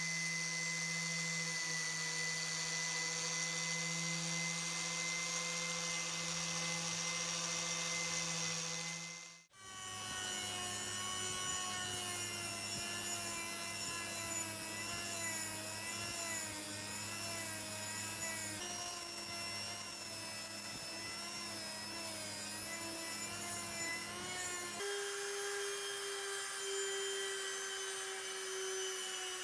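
Electric power tool motor running with a steady whine. It cuts out abruptly about nine seconds in, then runs again with a slightly wavering pitch, and shifts to a different, higher note near the end.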